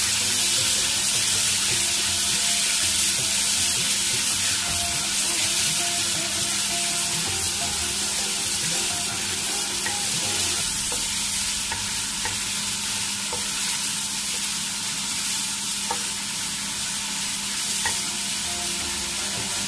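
Diced tomatoes sizzling in hot oil in a karahi, stirred with a wooden spatula that scrapes and clicks faintly against the pan. The sizzle is a steady hiss that eases slightly over the stretch, over a steady low hum.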